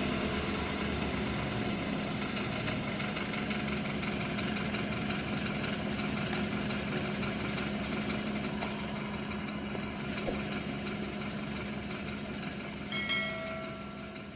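BMW F30 engine idling steadily, as it must be running for the electronic oil-level check. Near the end a short chime with several clear tones sounds once.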